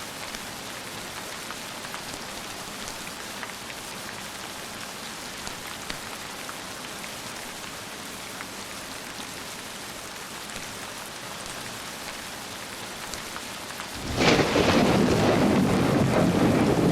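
Steady rain falling, a constant even hiss, until a loud clap of thunder breaks in suddenly about three seconds before the end and goes on rumbling.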